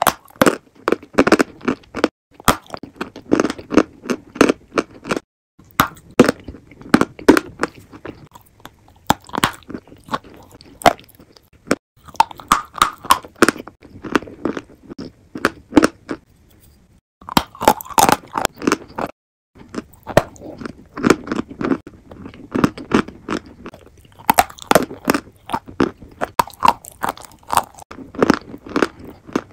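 A person biting and chewing a crumbly white chalk-like block: dense, rapid crunching in runs, broken by a few short pauses.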